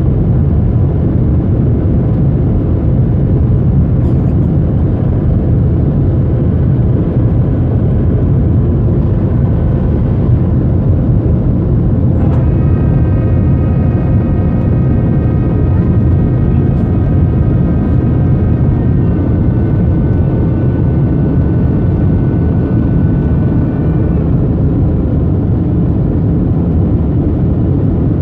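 Jet airliner engines heard from inside the cabin during takeoff, a loud steady roar. About twelve seconds in, a steady higher whine made of several tones joins in and cuts off about twelve seconds later.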